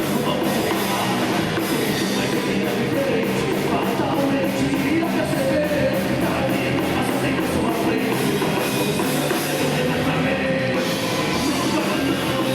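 Live heavy rock band playing loud and fast, with distorted electric guitars and a pounding drum kit.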